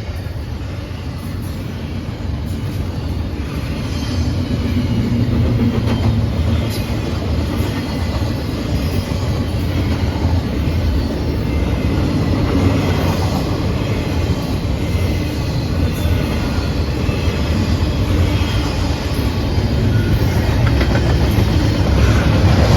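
Intermodal freight train's cars rolling past: a steady wheel-on-rail rumble with clicks over the rail joints and faint high wheel squeal, growing louder toward the end.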